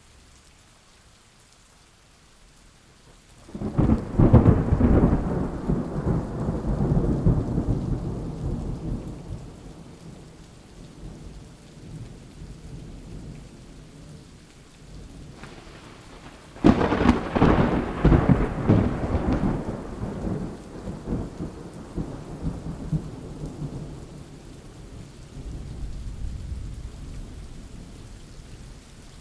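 Thunderstorm: steady rain with two long rolls of thunder, the first breaking a few seconds in and the second just past halfway, each rumbling off over several seconds, with a smaller rumble near the end.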